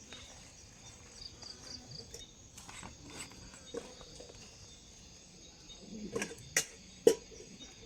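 Insects trilling faintly in the background, with a few sharp knocks and clacks, most of them close together near the end and the loudest about seven seconds in.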